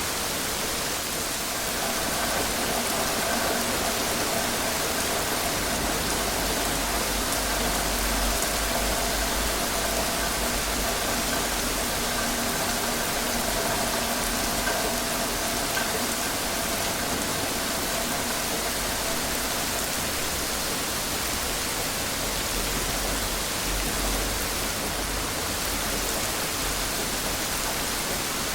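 Steady rainfall, an even hiss with no breaks. A faint hum of a few steady tones lies underneath from about two seconds in until about two-thirds of the way through.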